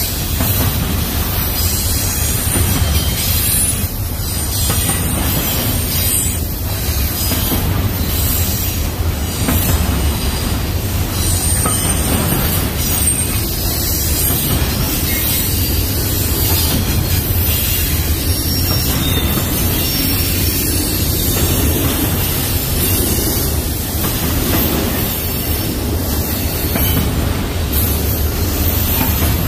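Union Pacific double-stack intermodal freight train rolling past, its container cars giving a steady rumble of wheels on rail with a high hiss over it.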